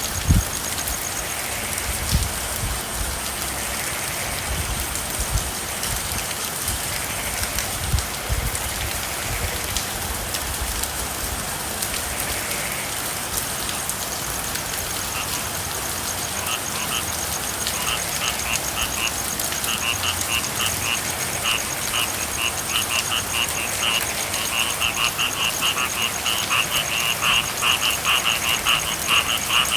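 Steady rain, with a few low knocks of heavier drops in the first several seconds. About halfway through, frogs start calling in rapid pulsing trills that grow louder and denser toward the end.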